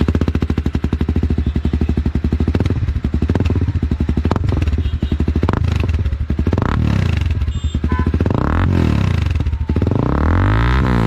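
Honda CB300R's single-cylinder engine, breathing through a full-system Akrapovic exhaust with the catalytic converter removed, idling with an even fast pulse and then revved in several blips, the biggest about ten seconds in. Very loud.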